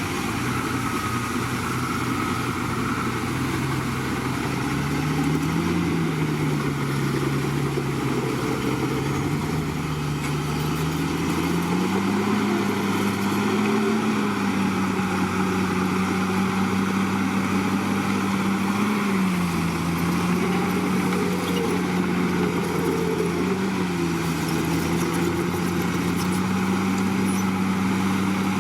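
Komatsu D61PX bulldozer's diesel engine running under load. Its pitch climbs noticeably about a third of the way in, then holds, with several brief dips and recoveries as the load changes.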